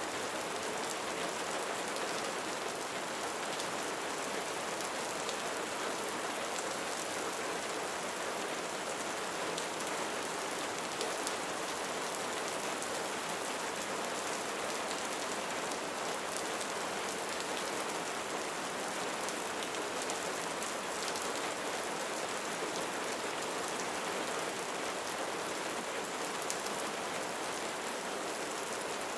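Steady rain falling on a roof, a dense even patter of drops with no thunder.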